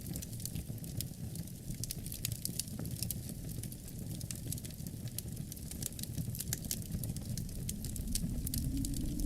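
Wood fire crackling in a fireplace with many quick, sharp pops, over a steady low rumble of wind; near the end a low wind tone rises in pitch.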